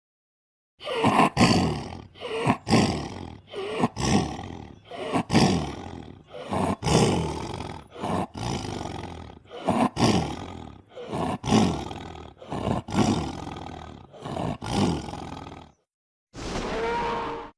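A quick series of short, loud monster roars, a dozen or more, each dropping in pitch, with dead silence between them. Near the end comes one shorter, steadier cry.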